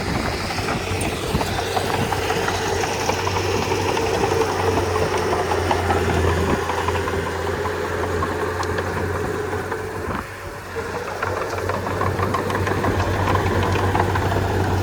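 Komatsu D31P bulldozer's diesel engine running steadily under work, dipping briefly about two-thirds of the way through before picking back up.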